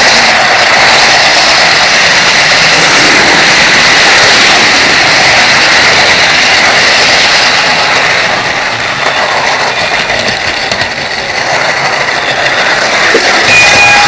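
Model railway truck running along the track, picked up by a micro camera's microphone riding on it: a loud, steady clatter and rumble of small wheels on rails with a thin high whine, easing a little for a few seconds past the middle.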